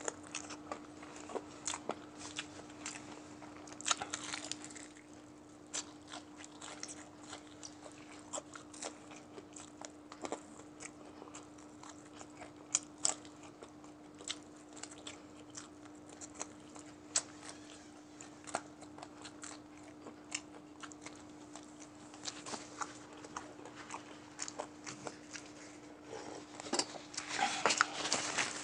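Close-miked eating: chewing and gnawing meat off a chicken neck bone by hand, with irregular wet mouth clicks, smacks and small crunches. Near the end there is a short burst of tissue paper rustling.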